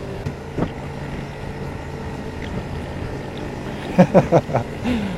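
Motorcycle engine running steadily under way, heard from on board with wind rush. A man's voice calls out briefly near the end.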